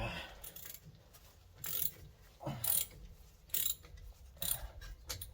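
Ratchet wrench clicking in short strokes, about one a second, as it works a brake caliper bolt back and forth.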